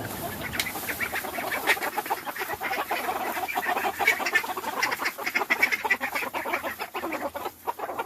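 Ducks and chickens calling together: a dense, continuous run of short quacks and clucks.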